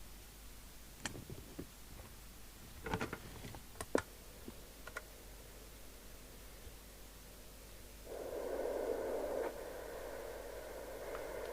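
A few light clicks and knocks of connectors and leads being handled. About eight seconds in, a steady hiss with faint tones comes on and drops a little a second and a half later: the CB radio's receiver noise from its speaker as the set is powered up on the test gear.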